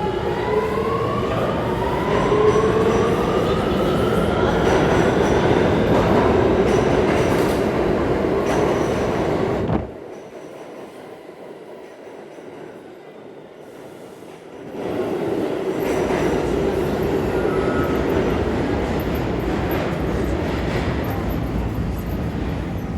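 R46 subway train accelerating, its traction motors whining upward in pitch, then running with loud wheel and rail noise. The sound drops away abruptly about ten seconds in and returns about five seconds later.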